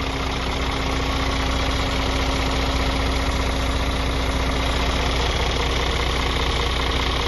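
Scania R 450 truck's 13-litre inline-six diesel engine idling steadily.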